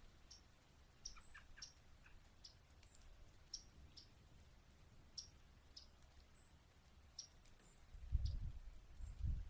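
Faint, sharp chip calls of yellow-rumped warblers: short single notes repeated irregularly, about one or two a second. Two low rumbles come near the end.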